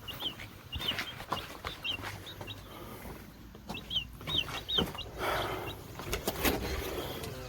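Baby chicks peeping: short high chirps in quick little runs. Knocks and rustling of handling come in the second half.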